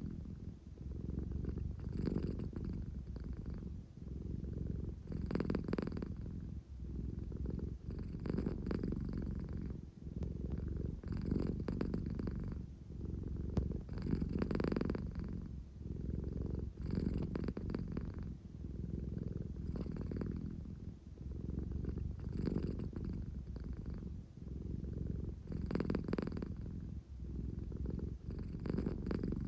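American Shorthair cat purring steadily and close, swelling and easing about every three seconds with each breath in and out. It is the sleepy purr of a cat that wants affection as she settles to sleep.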